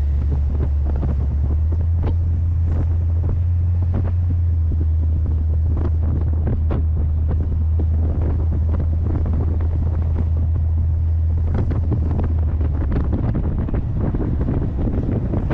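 Heavy wind buffeting on the microphone from driving in the C3 Corvette, over the steady low drone of its small-block 350 V8. The drone changes and loosens near the end.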